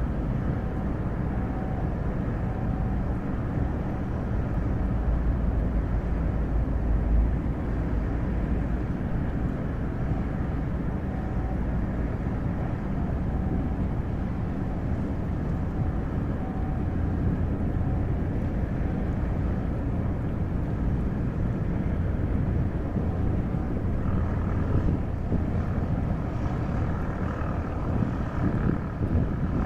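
Steady low rumble of a ship's engines, with faint steady tones running over it.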